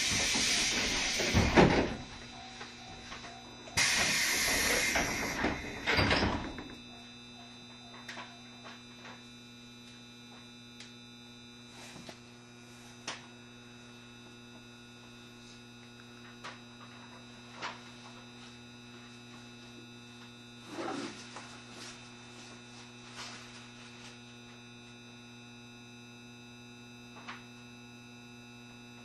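JR Shikoku 7200 series electric train standing still. Two loud hissing bursts come in the first six seconds, then a steady electrical hum with a few faint clicks.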